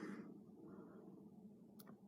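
Near silence: faint room hum with a soft rustle at the start and a single sharp click near the end.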